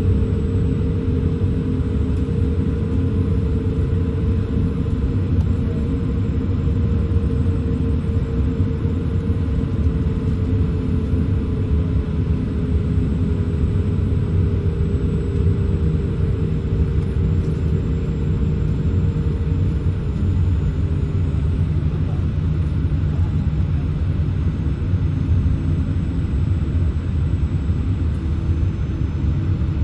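Cabin noise of a Boeing 787-8 taxiing: a steady low rumble from the engines at taxi power and the rolling airframe, heard inside the cabin. An engine tone slides slowly lower partway through.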